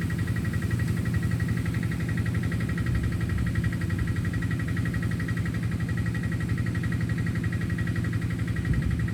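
A small engine running steadily at an unchanging pitch, with a fast, even pulsing.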